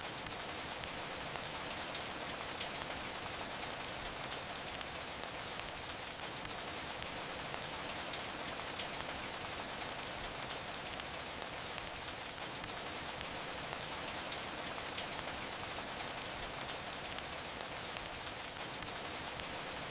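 Steady rain falling, with sharp crackling pops from a wood fire scattered through it, a few louder than the rest.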